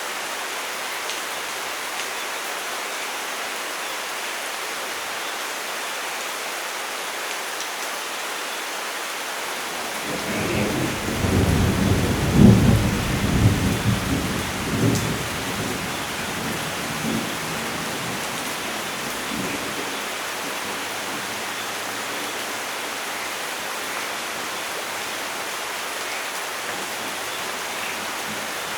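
Steady heavy rain hissing, with a roll of thunder that swells up about ten seconds in, rumbles loudest for a few seconds and dies away over several more.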